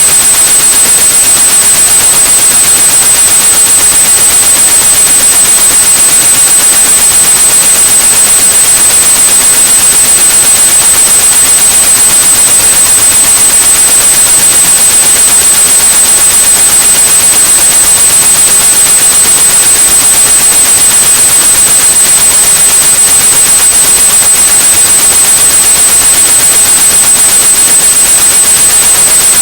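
Steady white noise with a constant high-pitched tone at about 8,100 Hz laid over it, a masking sound meant to cover tinnitus.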